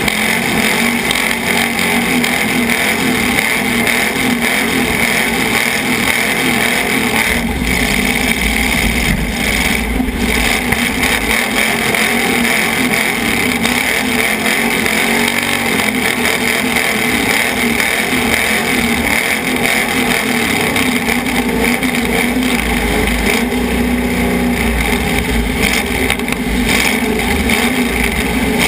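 Demolition derby car's engine running and revving hard, loud and continuous, heard from inside the car.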